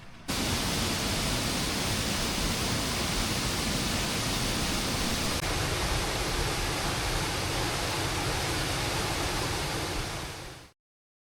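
Heavy rain falling as a steady, even rush of noise. It starts abruptly and stops dead near the end.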